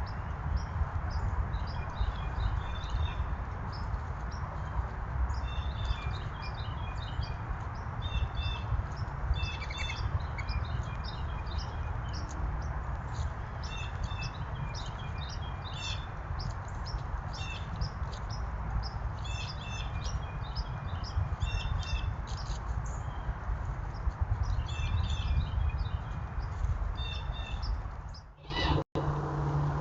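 Small birds chirping in quick clusters of short high notes, again and again, over a steady low rumble.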